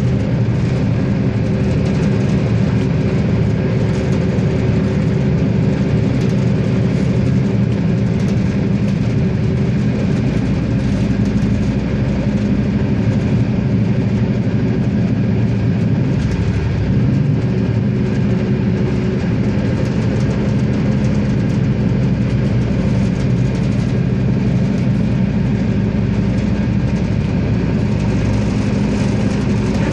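Diesel engine of a RegioSprinter railcar running steadily, heard from inside the train as a constant low drone.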